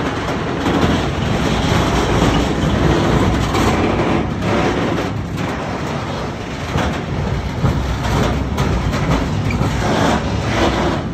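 Freight train of silo tank wagons rolling past, with a steady rumble of wheels on rail and sharp wheel clacks every second or so as the wheels cross the tram tracks.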